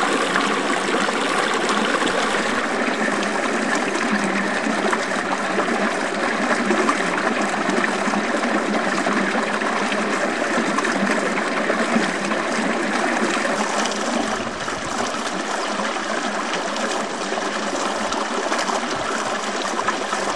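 A small river flowing steadily, a constant rush of running water that drops slightly in level about two-thirds of the way through.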